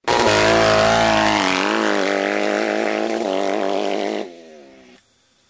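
Motocross dirt bike engine running hard at a fairly steady pitch that wavers slightly. It starts abruptly, drops off after about four seconds and fades out.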